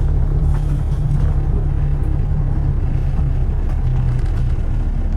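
Steady low rumble of road traffic, with a few faint ticks and clicks over it.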